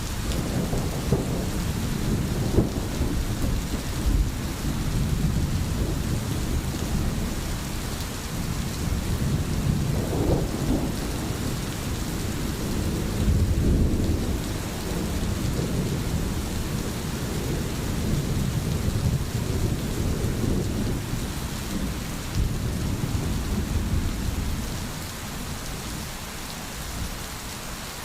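Steady rain falling, with low rolling thunder rumbling underneath; the rumble swells about halfway through and eases off near the end.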